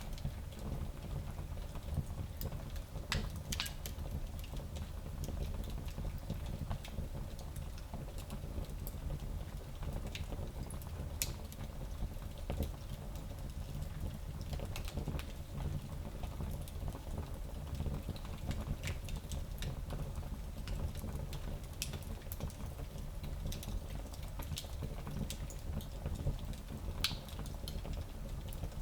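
Small wood fire burning in a fireplace: a steady low rumble of the flames with scattered sharp crackles and pops from the burning wood.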